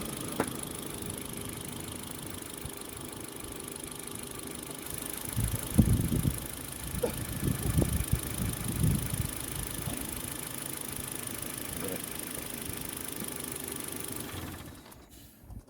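Ford Focus II engine idling steadily, with several knocks and thumps in the middle. The running sound cuts off sharply near the end.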